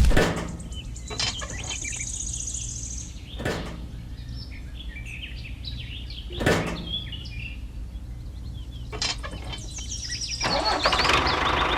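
A vehicle engine running steadily with a low hum, with birds chirping and a few sharp knocks about three seconds apart.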